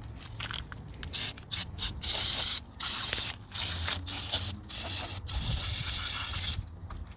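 Aerosol cleaner sprayed in a series of hissing bursts, first several short ones, then longer ones with brief gaps, cutting off near the end: throttle body or idle air control valve being spray-cleaned.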